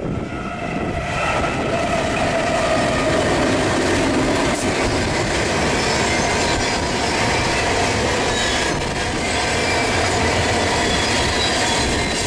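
A CN freight train passing close by: the two lead diesel locomotives' engines go by in the first seconds, then a long string of tank cars rolls past with steady wheel-on-rail noise and a faint high wheel squeal.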